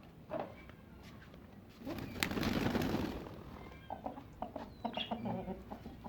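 Backyard chickens and other birds: a brief flurry of wing flapping about two seconds in, then short calls and quick clicks.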